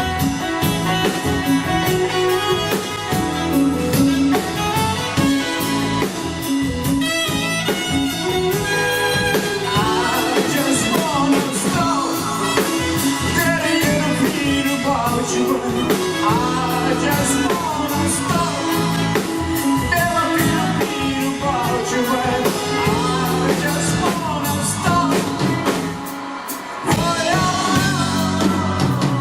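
Live band playing an instrumental passage: a lead melody line sliding up and down over guitar, bass and drums. The band thins out briefly about 26 seconds in, then the drums come back in.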